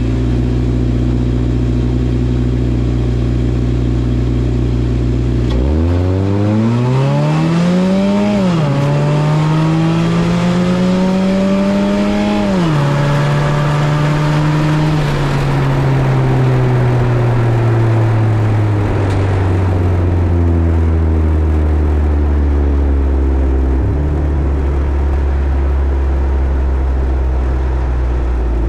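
Drag car's engine idling steadily, then launching about six seconds in and revving hard up through the gears. The pitch drops at two gear changes, then winds down slowly as the car lifts off and slows after the run.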